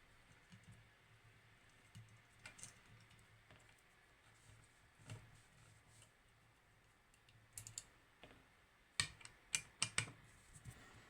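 Small metal lock parts being handled during disassembly of a lever lock: faint scattered clicks and taps, then a quick run of four or five sharper clicks about nine seconds in.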